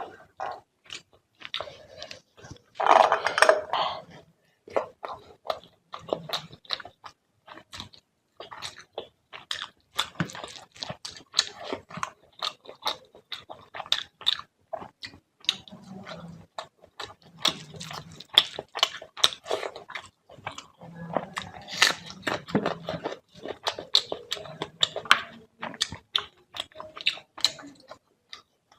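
Close-miked chewing of fish curry and rice: steady, irregular wet smacks and mouth clicks, with a louder burst of chewing about three seconds in.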